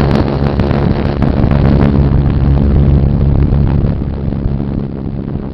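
Motorcycle engine running steadily under way, with wind noise on the microphone. The engine sound eases off about four seconds in.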